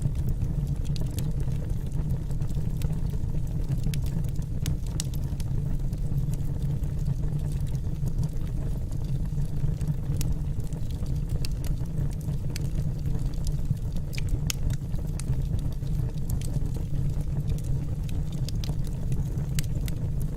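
Wood fire burning in a fireplace: a steady low rumble of the flames with frequent sharp crackles and pops from the burning logs, scattered at irregular intervals.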